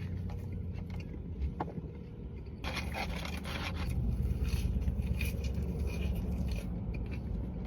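Eating and food-handling noises close to the microphone: crackly scraping and rustling over a steady low rumble, growing busier about three seconds in.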